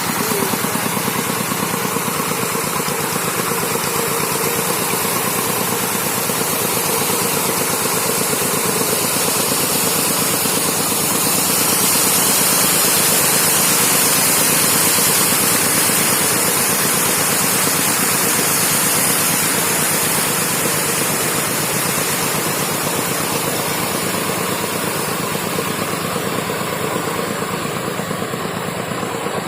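Tractor engine running steadily with an even firing rhythm, growing somewhat louder in the middle and easing off near the end.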